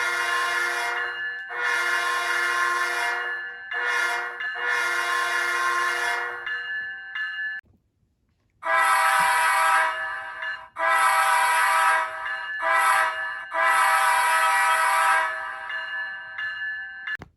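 Sampled locomotive air horn from an ESU LokSound 5 sound decoder, played through a model locomotive's small speaker. It sounds the long, long, short, long grade-crossing pattern. After a second of silence a different multi-chime horn sounds the same pattern, its last blast trailing off.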